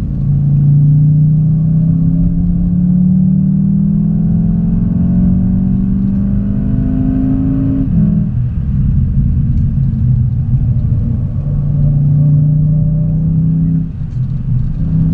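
Car engine heard from inside the cabin, pulling hard with its note climbing steadily for about eight seconds, then dropping suddenly at a gear change and running on steadily, with a brief dip near the end.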